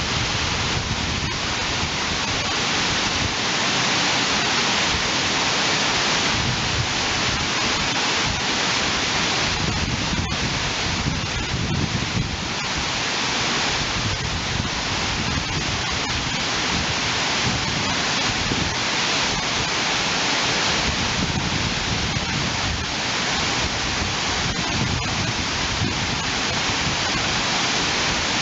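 Waterfall, a steady rush of falling water with a low rumble underneath.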